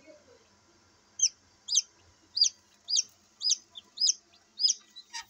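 Newly hatched Australorp chicks peeping: a run of about seven loud, high, short peeps, each falling in pitch, about two a second, starting about a second in.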